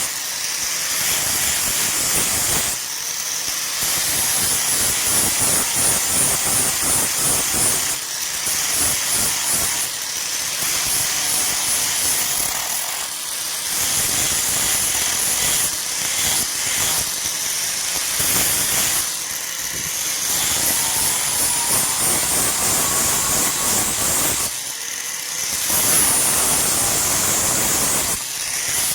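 Steel of a scissor blade being ground on a power grinder: a steady, loud hiss broken by a few short pauses where the work is lifted off.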